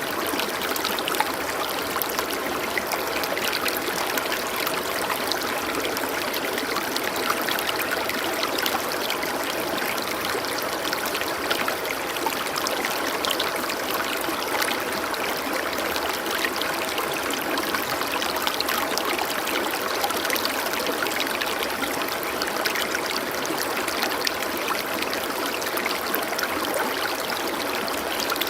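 Stream water flowing and trickling steadily, an even rushing with no breaks.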